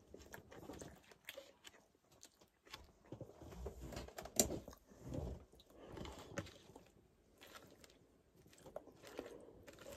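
A person chewing and biting into bread and breakfast food close to the microphone, with small clicks of handling and a fork; one sharper click stands out about halfway through.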